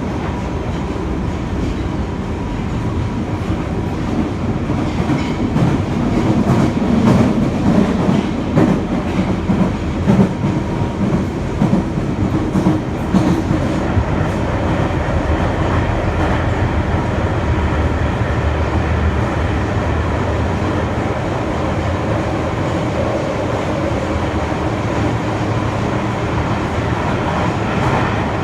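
Running noise inside an N1000-series subway car with Mitsubishi IGBT-VVVF traction, heard in a tunnel: a steady rumble of wheels on rail with clicks and clatter over the rail joints. It is louder and rougher from about 5 s to 14 s in, then settles to a steadier run.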